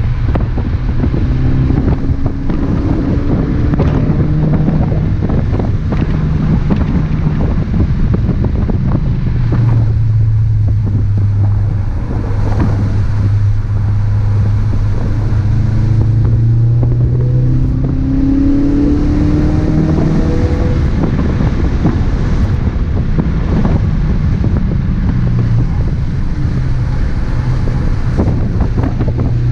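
2017 Ford Focus RS's turbocharged 2.3-litre four-cylinder engine running hard at track speed, its pitch stepping and rising as it shifts and accelerates. A steady hiss of wind and road noise runs underneath.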